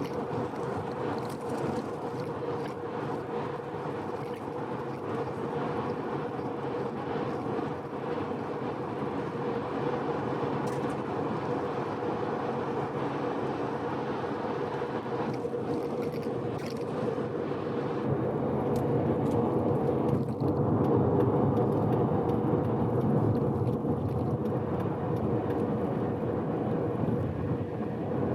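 Mazda RX-7 (FD3S) with its freshly rebuilt 13B-REW twin-turbo rotary engine cruising at steady expressway speed under gentle break-in driving: a steady engine hum over tyre and road noise. About two-thirds of the way through, the low rumble grows louder.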